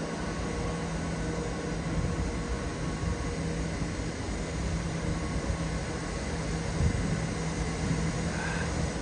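Railway train or locomotive running, a steady low hum over an even rumble and hiss.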